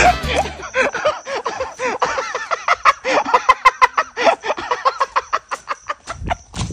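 A person laughing hard: a long, rapid run of short 'ha' bursts, about three or four a second.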